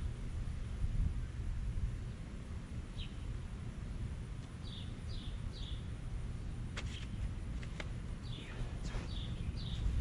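A bird chirping in short descending notes, once and then in groups of three, over a low steady rumble, with two faint clicks about seven and eight seconds in.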